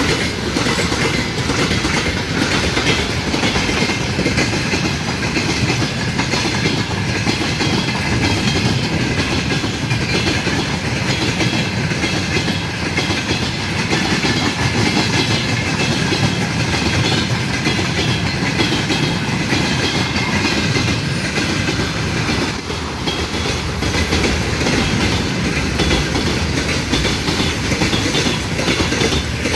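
A train running past, its wheels clattering steadily over the rail joints without letting up.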